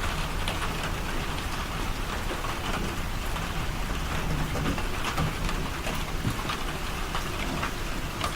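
Steady heavy rain pattering on the house, heard from indoors as a dense even hiss with many small drop ticks.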